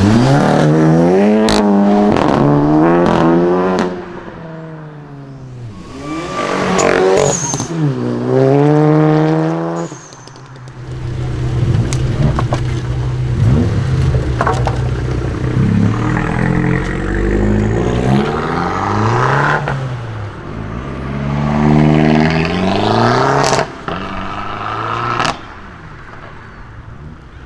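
Modified cars accelerating hard away one after another, the engine pitch climbing and dropping through gear changes, with a few sharp exhaust bangs among the revs.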